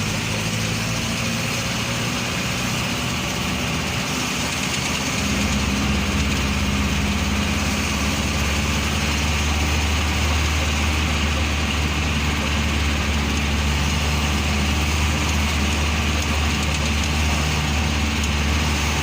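A vehicle engine runs steadily with a low hum. About five seconds in it becomes slightly louder and its note shifts, as if it is taking more load or revs.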